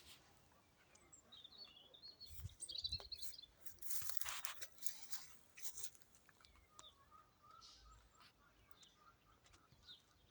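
Birds chirping, with a few seconds of crunching and rustling of soil being handled for planting tomato seedlings, and a couple of soft thumps. A bird repeats a short call over and over near the end.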